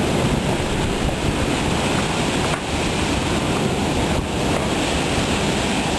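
Severe thunderstorm straight-line winds rushing steadily and loudly, with wind buffeting the microphone.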